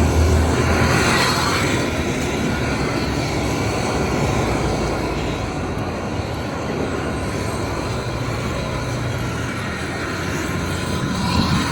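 Street traffic: a heavy vehicle's low engine rumble fades about a second in, followed by a steady wash of passing road traffic.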